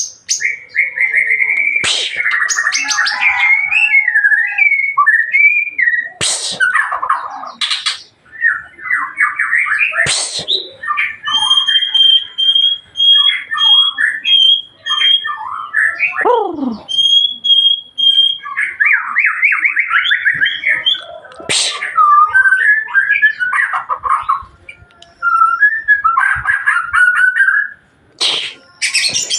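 White-rumped shama singing a long, varied song of rapid trills, warbles and whistles, including a long held high whistle and a steep falling glide midway. Several sharp clicks break in between phrases.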